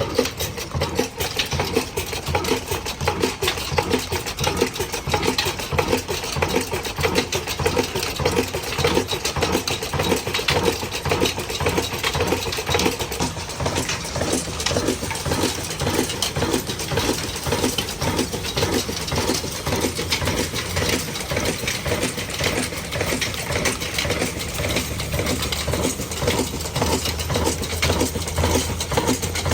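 Old 22 hp stationary diesel engine running steadily with an even, rhythmic beat.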